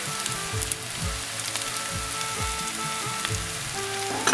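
Diced boiled potatoes and browned onions sizzling in a frying pan, a steady hiss, under background music with a regular beat.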